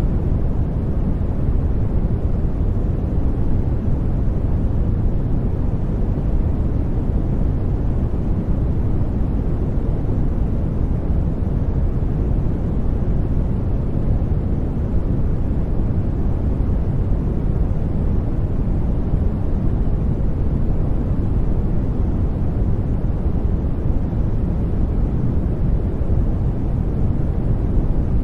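Steady, unbroken deep noise, sleep-aid 'white noise' weighted to the low end like a brown-noise rumble, with no events or changes in it.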